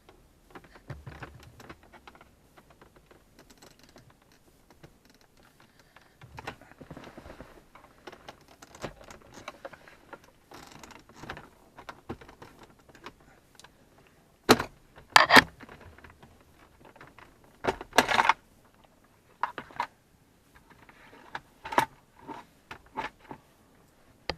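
Plastic dashboard trim of a Toyota Supra Mk4 being handled and pulled loose: scattered small clicks, taps and rattles, with a few louder sharp knocks a little past the middle and two more near the end.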